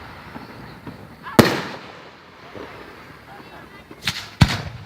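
Aerial fireworks shells bursting: one sharp bang about a second and a half in, then two more in quick succession near the end, each followed by a fading rumble.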